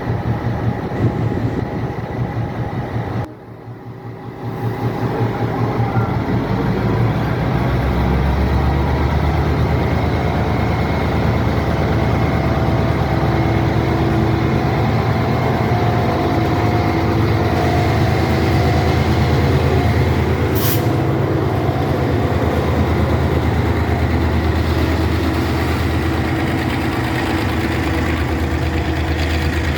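Diesel locomotive engine running steadily with a deep, even rumble, coming in after a sudden break about three seconds in. A short, sharp hiss about two-thirds of the way through.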